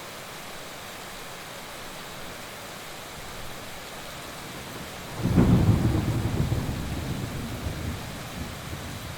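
Steady heavy rain, with a clap of thunder about five seconds in: a sudden low rumble that peaks at once and rolls off over the next few seconds.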